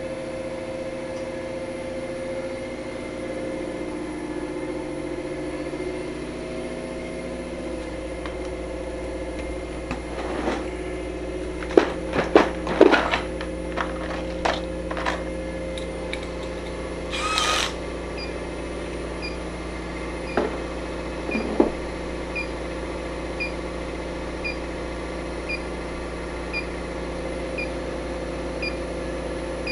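Steady machinery hum with several fixed tones. Around the middle come a cluster of knocks and clatter and a brief hiss, then a faint regular tick about every 0.6 s.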